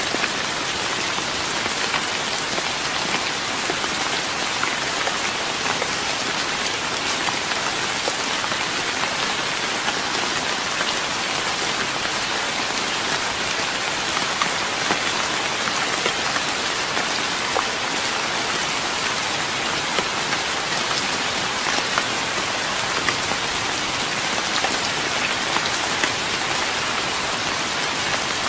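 Steady rain falling on a wooden deck, a dense even patter with many individual drops ticking on the boards.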